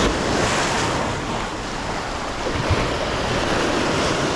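Sea wave surging in over a rocky shore, a loud steady rush of surf that builds just as it begins, with wind buffeting the microphone.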